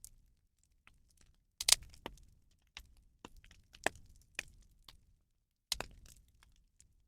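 Bonfire of burning rubbish crackling: irregular sharp snaps and pops, a few louder ones about two, four and six seconds in.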